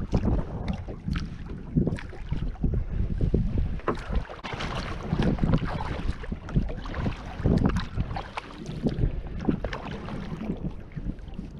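Kayak being paddled on a river: irregular splashing and knocking of the paddle and water against the hull, with wind rumbling on the microphone.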